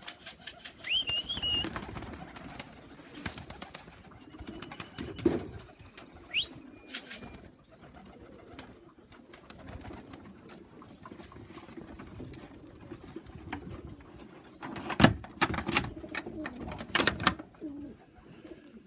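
Domestic pigeons cooing in a loft, with scattered clicks and flutters and a few short chirps. There are several louder sharp knocks about 15 and 17 seconds in.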